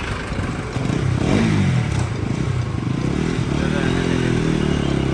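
Motorcycle engine pulling away and accelerating. Its pitch rises about a second in, then climbs again from about three seconds in.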